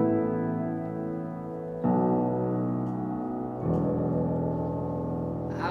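Keyboard playing long sustained chords as a song's intro, moving to a new chord twice, about two and three and a half seconds in.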